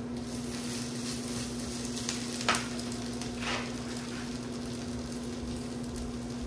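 Food frying in pans on the stovetop, with a steady sizzle from sliced bell peppers, steak and buttered tortillas cooking. A steady low hum sits underneath, and two light utensil taps come about two and a half and three and a half seconds in.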